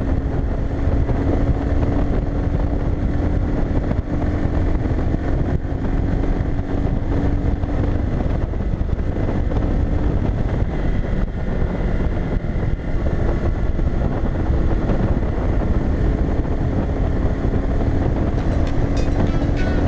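Bajaj Boxer BM 150 motorcycle's single-cylinder engine running at a steady cruising speed, under heavy wind buffeting on the helmet-mounted microphone.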